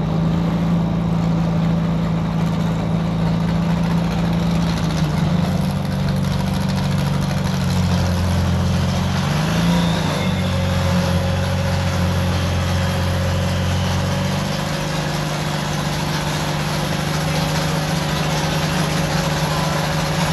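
Off-road race car's engine running steadily at low revs, with a brief rise and fall in pitch about halfway through.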